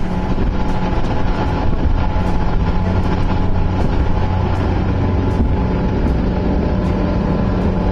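A boat's engine running steadily: a low, even droning hum with no change in speed.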